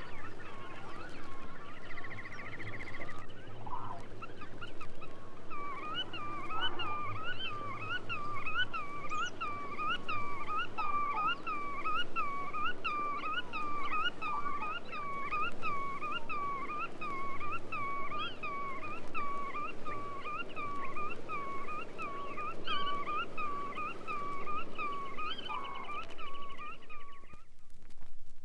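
Black-tailed godwit calling: a long, rhythmic series of repeated nasal notes at about two a second, with a short trill early on. The calls stop near the end.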